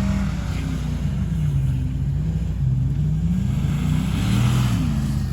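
Car engine revving, its pitch falling and rising several times.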